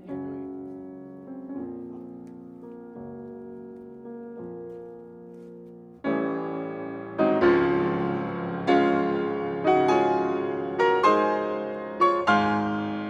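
Slow piano music, soft for the first six seconds or so, then louder and fuller, with chords struck about once a second.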